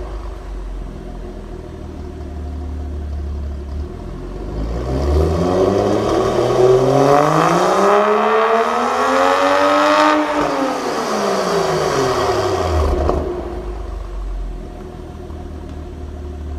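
BMW M235i's turbocharged 3.0-litre straight-six, breathing through a catless 4-inch downpipe and M Performance exhaust, idling while still cold. About four seconds in it is revved once: the pitch climbs slowly for around six seconds, peaks briefly, then drops back to a steady idle.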